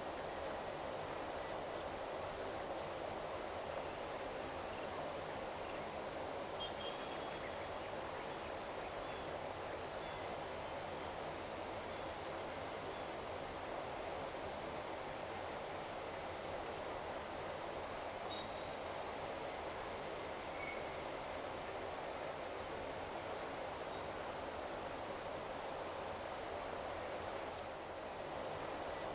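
Evening paddy-field insect chorus: a high-pitched insect chirps in a steady rhythm about once a second over a continuous high insect drone, with an even low hum of ambience underneath.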